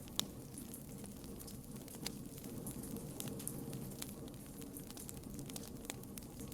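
Campfire burning with irregular sharp crackles and pops over a steady low rush of flame. One pop stands out just after the start.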